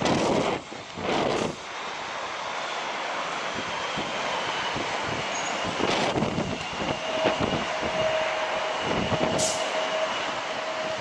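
Airbus A380 jet engines running with a steady whine, while strong gusts of wind buffet the microphone during the first second and a half.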